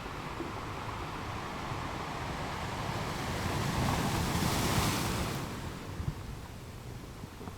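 Ocean surf: a wave builds, breaks with a loud hiss about four to five seconds in, then washes back and fades.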